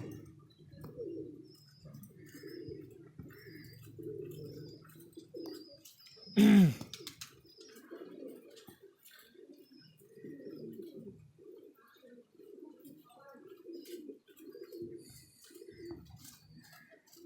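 Domestic pigeons cooing, low coos following one another all through. About six seconds in comes a brief, much louder sound that falls sharply in pitch.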